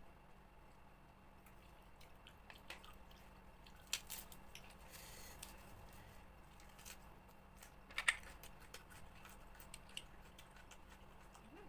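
Blood cockle shells being pried open and eaten: a few sharp shell clicks, one about four seconds in and two close together around eight seconds, amid faint wet squishing.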